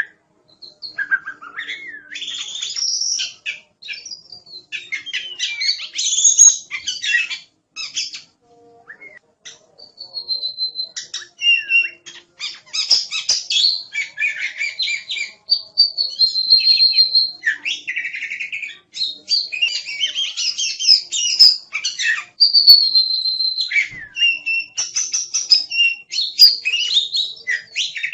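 Oriental magpie-robin (kacer) singing a loud, varied song of whistled notes, sweeping glides and rapid chattering phrases, with a short lull partway through.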